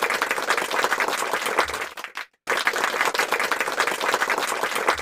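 Applause: many hands clapping in a dense patter, cut off abruptly for a moment a little past two seconds in, then resuming.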